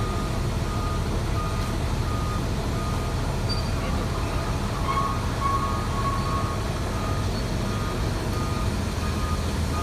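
Heavy diesel machinery running steadily with a low drone, and a reversing alarm sounding over it in regular short beeps, a little more than one a second.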